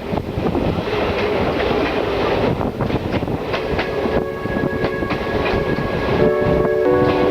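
Passenger express train rolling by at speed, its coaches' wheels rumbling and clattering over the rail joints. Steady tones come in near the end.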